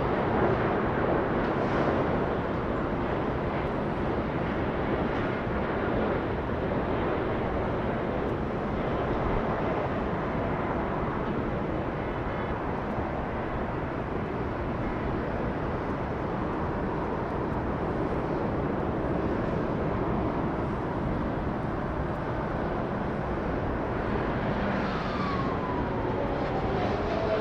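Jet airliner engines, a steady rushing roar. Near the end a whine falls in pitch as the aircraft passes.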